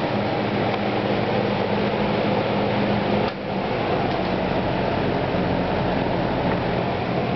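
Vintage Penncrest 200 box fan running: a steady whoosh of moving air over a low motor hum, with a brief dip in level about three seconds in.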